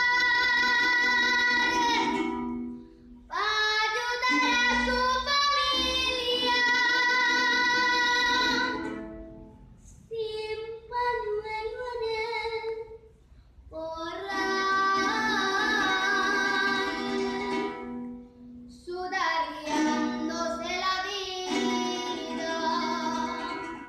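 A female voice singing a stylised llanero song in long held phrases with short pauses between them, over plucked-string accompaniment.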